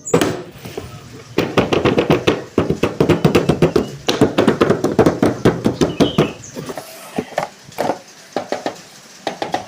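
Rapid, irregular clicks and taps of a toy RC car's box and plastic packaging being handled and opened, dense and loud for the first six seconds, then sparser and fainter.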